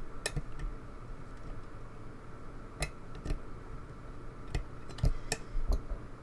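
Lock picks and a tension bar working in a lock's keyway: small irregular metallic clicks and taps, about eight of them, as the pins are probed. The pins are not setting yet.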